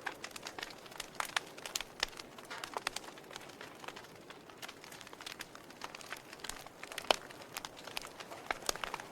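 Fire crackling in a fireplace: irregular sharp pops and snaps over a soft hiss, with one louder pop about seven seconds in.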